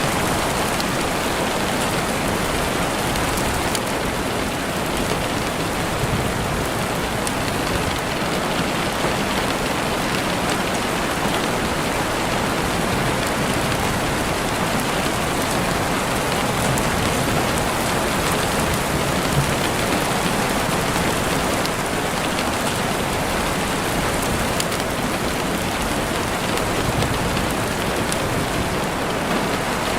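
Heavy rain falling steadily on a window, a dense even hiss with scattered drop taps.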